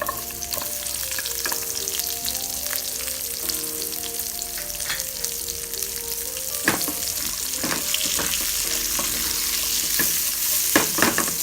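Ginger and onion sizzling in hot oil with browning garlic in a frying pan as they are dropped in and stirred with a wooden spoon; the sizzle jumps up as they go in and holds. A few sharp knocks of the spoon against the pan come about two-thirds through and near the end.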